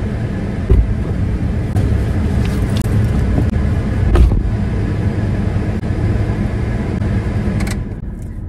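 Car engine idling with the driver's door open, with a few sharp clicks and a heavy thump about four seconds in as the driver climbs into the seat.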